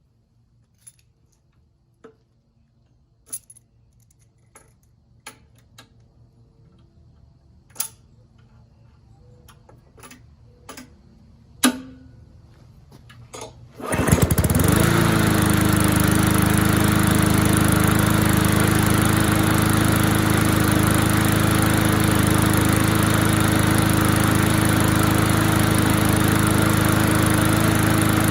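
A few scattered clicks and knocks. About halfway through, a walk-behind lawnmower's small engine comes in suddenly and runs steadily and loudly at an even speed.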